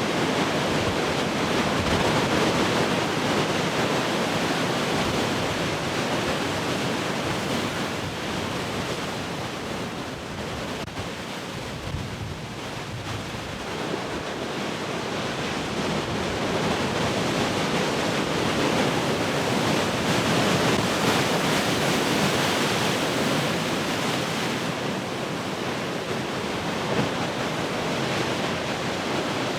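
Heavy ocean surf: large waves breaking and washing in a continuous rush, easing off about a third of the way through and then building up again.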